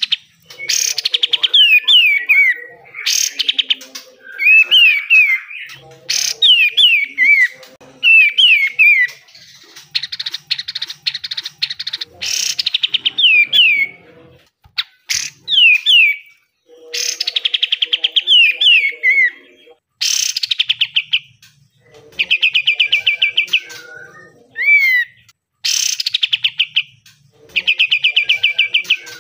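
Kapas tembak bulbul singing in repeated one-to-two-second bursts: fast machine-gun-like rattles and quick falling whistled notes, with short pauses between phrases. This rapid rattling delivery is the 'besetan' that bird keepers prize in a bird in top singing form.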